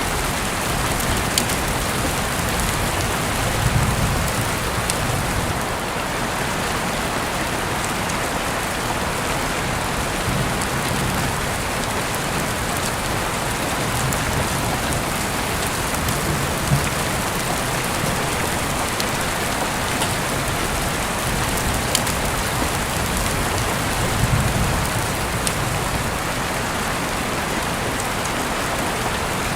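Heavy rain falling steadily through an open window, a dense even hiss with scattered sharper drops ticking close by.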